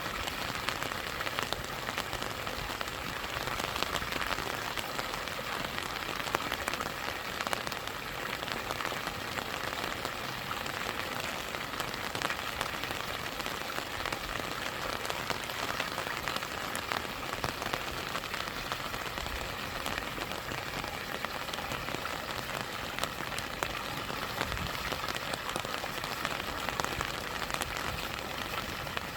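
Steady rain with many separate drops ticking, over the even rush of a stream and a small waterfall.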